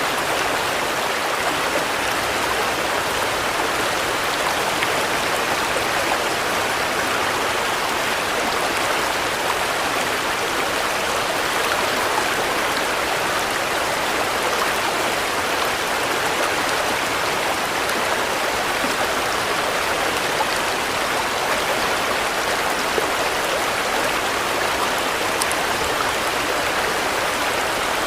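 Steady rain, an even wash of falling water with a few faint drop ticks.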